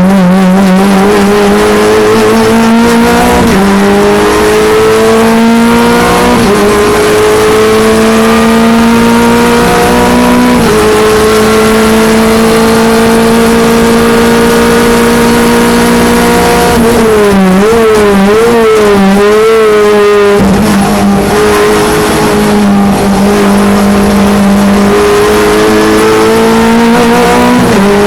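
Clio Cup race car's engine at full throttle, its note climbing through the gears with a drop back in pitch at each upshift. In the middle the note wavers up and down under braking and downshifts, falls away briefly, then climbs again through the gears.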